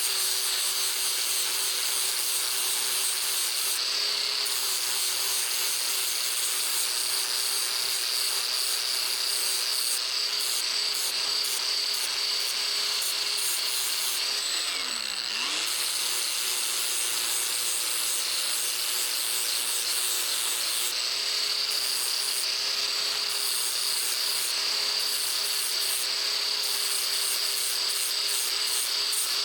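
An electric power tool runs steadily with an abrasive rubbing on the steel of an old saw blade being shaped into a knife. About halfway through, its motor note sags briefly and then climbs back.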